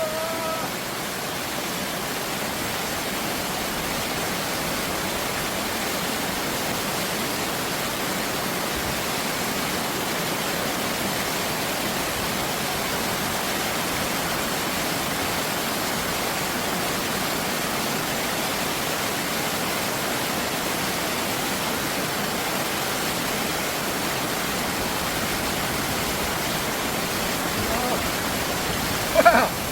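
Stream water rushing over rocks: a steady, even rush that holds at one level throughout.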